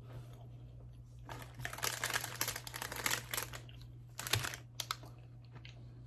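Packaging crinkling as it is handled, in a dense crackly spell starting about a second in, then two short bursts near the end.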